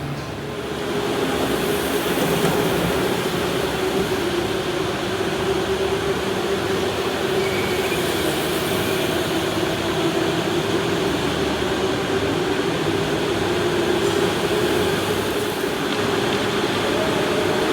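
Electric go-kart motor whining steadily over a haze of rolling and wind noise, the pitch drifting a little as speed changes. It gets louder about a second in.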